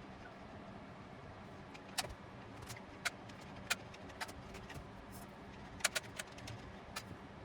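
Irregular light clicks and knocks of small hard objects being handled, over a steady low hum.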